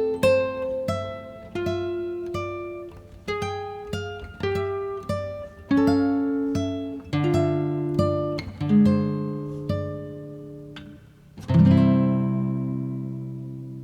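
Acoustic guitar music: single plucked notes and small chords picked one after another, ending with a full chord about three-quarters of the way through that rings out and slowly fades.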